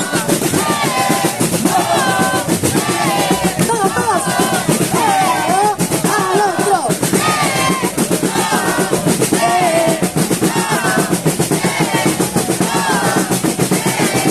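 Batucada percussion ensemble playing a fast, dense samba rhythm on drums, with a pitched melody line gliding above it.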